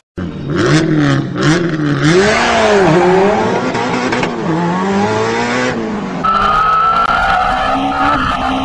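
Motorcycle engine running, its pitch rising and falling repeatedly as the throttle is worked. About six seconds in, a steadier, higher whine takes over.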